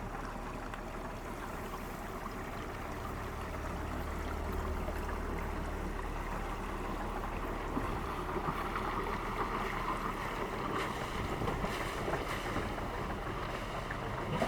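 A boat's engine running steadily as it goes by, with a low hum that fades away about ten seconds in, over the rushing wash of the water.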